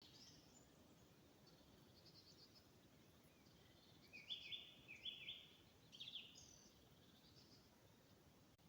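Small songbirds singing in the countryside: scattered short high chirps and a brief trill, with a louder run of quick rising chirps a little past the middle, over a faint steady outdoor background noise.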